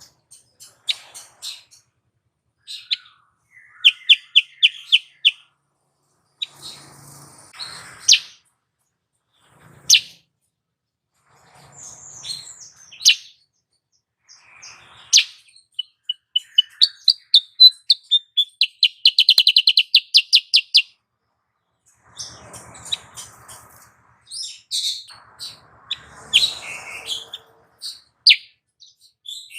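Female kutilang sutra (Indonesian mountain serin) calling: scattered high chirps and short buzzy trills, with one long, fast trill about halfway through.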